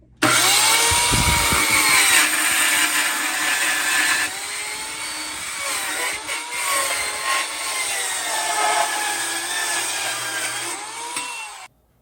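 Electric power saw cutting through 2x4 board ends, its motor whine dipping and recovering in pitch again and again as the blade loads in the wood. It starts suddenly and cuts off abruptly near the end.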